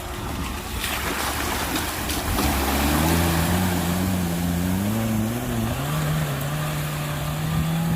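Small off-road 4x4's engine working in mud: over a steady rushing noise, the engine comes in about two and a half seconds in, its pitch rising and falling as the throttle is worked, then holds steady for the last couple of seconds.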